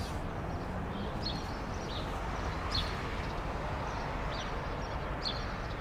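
Small birds chirping, short high calls repeating every half second or so, over a steady outdoor hiss.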